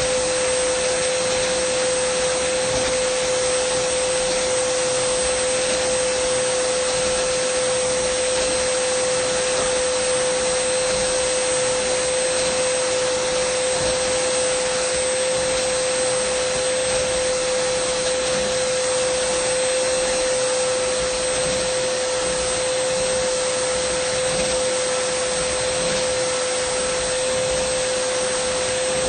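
Dyson vacuum cleaner running steadily: an even rushing hiss with a constant mid-pitched whine, unchanging throughout.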